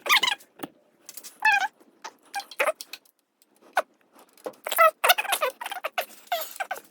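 A run of short, high squeaks in irregular bursts, the pitch sliding within each one.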